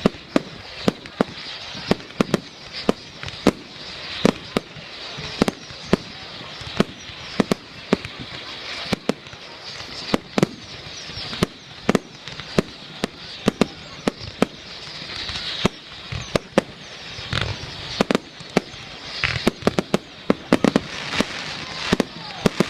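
Fireworks going off in a rapid, irregular series of sharp bangs, about two a second, over a continuous hissing crackle.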